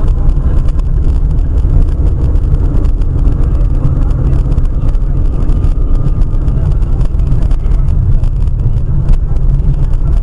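Steady, loud low rumble of a moving car's engine and road noise.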